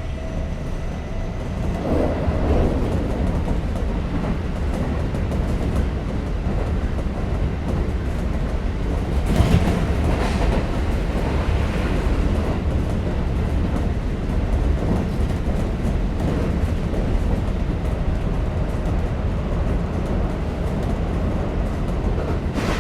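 Kintetsu 5800 series electric train running at speed, heard from inside the car: a steady rumble of wheels on the rails, with a few louder clacks, the strongest a little under halfway through.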